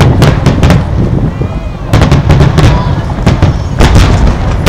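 Aerial firework shells bursting in rapid succession: many sharp, overlapping bangs over a constant low rumble.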